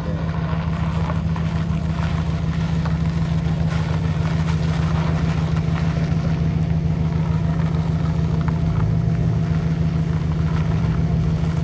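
Vehicle engine running steadily at idle, a loud, even low hum with no revving.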